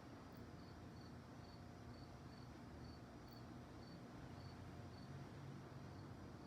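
A cricket chirping faintly and evenly, about two chirps a second, falling silent about five seconds in, over a low steady background hiss.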